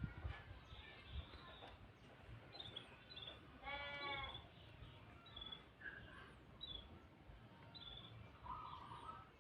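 Faint canary chirps: scattered short high chirps, one stronger call about four seconds in, and a brief buzzy trill near the end.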